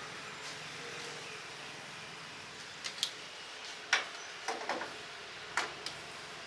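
Steady hiss of a charcoal grilling stall, broken by a handful of sharp clicks and knocks in the middle, some in quick pairs, from utensils or grill racks being handled.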